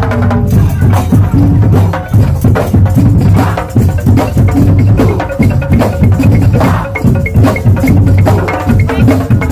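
Madurese tong-tong (ul daul) percussion ensemble playing a fast, dense rhythm: struck wooden slit drums over heavy bass drums.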